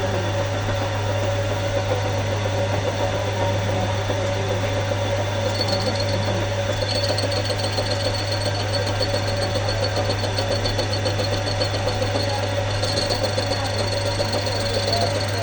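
A workshop machine runs steadily with a constant low hum and a steady mid-pitched tone. A thin high whine joins in about six seconds in and again near the end.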